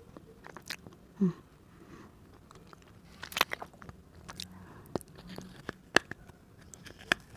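Teeth biting on a hard fired-clay diya (earthen lamp): scattered sharp clicks and small cracks, the loudest cluster about three seconds in. The clay is too hard to bite through cleanly, and the eater calls it very hard.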